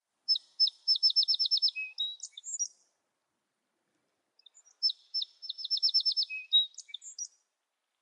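A sparrow singing two songs a couple of seconds apart. Each song has a few separate high notes, then a quick trill of about eight notes, and ends with a few scattered notes.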